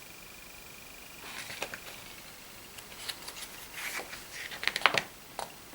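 Paper being handled as the catalogue's pages are turned: scattered rustles and crisp clicks, busiest about four to five seconds in. A faint steady high whine fades out about two seconds in.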